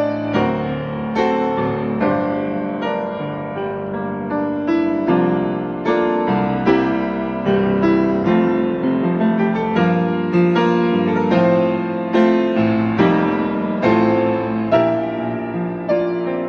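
Piano playing a slow, gentle hymn accompaniment with no voice: chords struck about once a second, each ringing and fading before the next.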